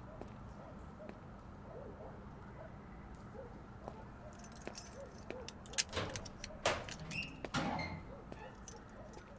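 A brief metallic rattle of clicks and jangling, loudest about six to eight seconds in, over a low steady background.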